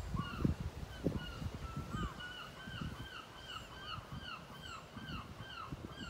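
A bird calls over and over in a quick run of short, arched notes, about three a second, starting about a second and a half in. A few low thumps sound near the start.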